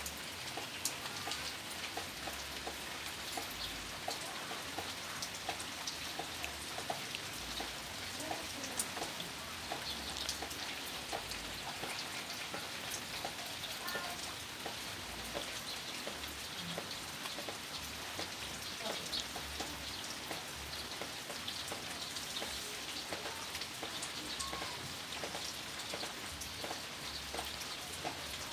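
Steady pattering of rain: an even hiss thick with many small drop ticks.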